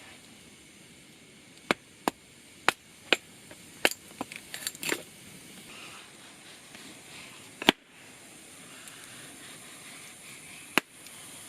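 Sharp, irregular cracks and knocks, about ten of them with a quick cluster near the middle, over a faint steady hiss.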